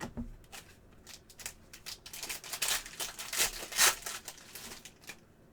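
Trading card packs and cards being handled: a run of crinkling and rustling, with the foil pack wrapper torn and the cards inside slid out and flipped through, busiest and loudest in the middle and dying away near the end.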